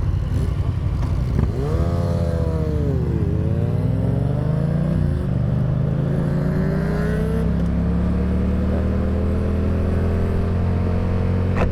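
Yamaha FZ-07's parallel-twin engine under way: the revs rise and drop sharply about two seconds in, then climb slowly and steadily through a long pull, with wind rumbling over the helmet microphone.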